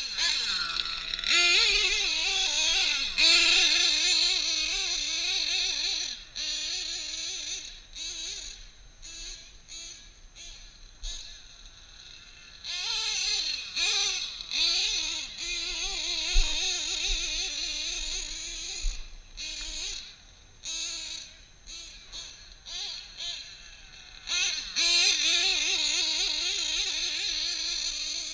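Small two-stroke nitro engine, an RCR drag-modified Novarossi .28, screaming as the truggy is driven. Its pitch wavers up and down with the throttle, and it grows louder and fainter as the truck runs near and away, loudest three times.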